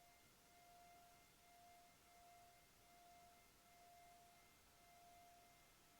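Near silence: a faint hiss with thin, steady electronic tones, one of them breaking off briefly about once a second.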